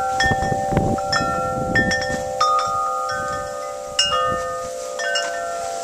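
Wind chimes ringing, struck again and again every half second or so, their metallic tones overlapping and ringing on.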